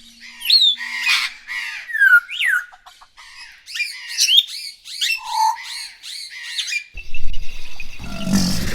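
Birds calling: a run of short chirps and squawks with quick falling whistles, several a second. About seven seconds in it cuts to a louder, rough, noisy sound.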